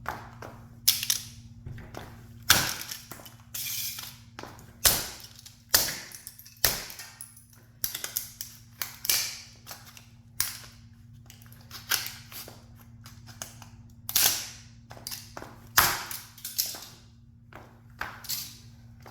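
Sharp cracks and crunches, a dozen or more at irregular intervals, some trailing into brief crackling, as a toy sports car is crushed under a high heel.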